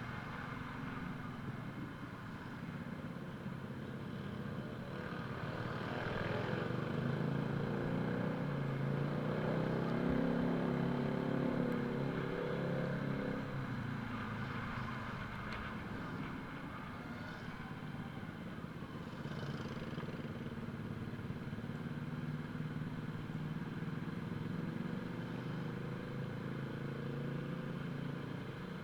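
Motorcycle engine running under way, its pitch rising and falling with speed, over a steady hiss.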